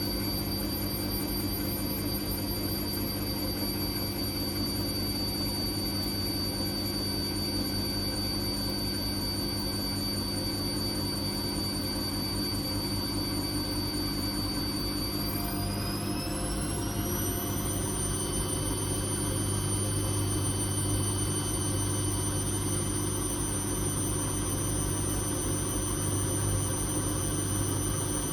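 Whirlpool Indiana 1400 washing machine spinning: a steady motor whine over a hum. About halfway through the whine rises in pitch and then holds, as the drum speeds up to a higher spin speed.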